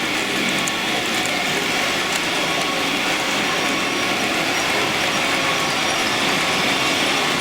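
Model trains running on an exhibition layout: a steady rattling of small wheels over the track with the whir of their electric drives, and a few light clicks about a second in.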